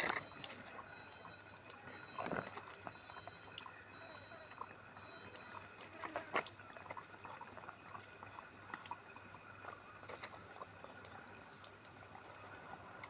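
Langur monkeys drinking: faint lapping and dripping of water, with scattered small clicks and splashes, two of them louder, about two and six seconds in.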